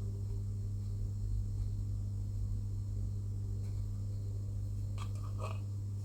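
Steady low electrical hum, with a brief cluster of small clicks and rustles about five seconds in as small plastic model parts and a sticker are handled.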